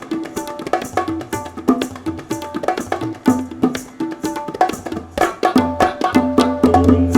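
Hand-percussion duet of bongos, cajon, tabla and kanjira playing a fast, dense rhythm of sharp strokes, with ringing pitched drum tones and deep bass hits that grow stronger near the end.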